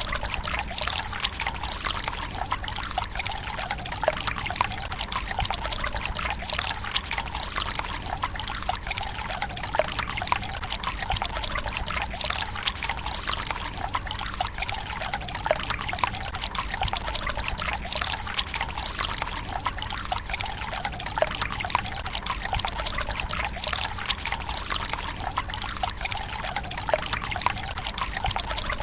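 Water trickling from a bamboo spout into a stone tsukubai basin: a steady splashing pour, dotted with many small splashes and drips.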